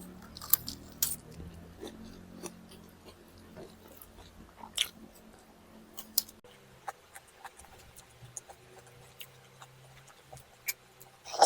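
A person chewing and eating chicken drumsticks and rice, with irregular soft clicks and mouth smacks over a faint low steady hum; one sharper click near the end.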